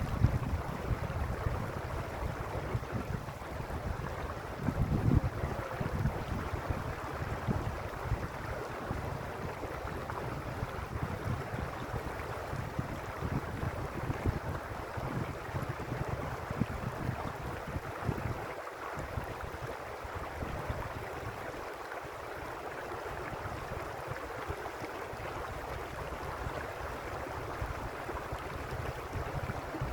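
Mountain stream water flowing steadily, a continuous rushing with an uneven low rumble that swells and eases.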